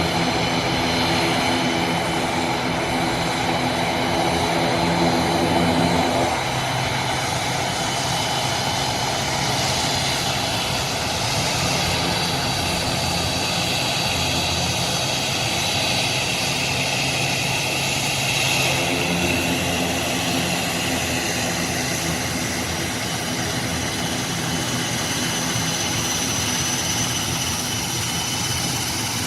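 Airplane engines running steadily, with a hum of several steady tones under a broad rushing noise; the tones change abruptly about six seconds in.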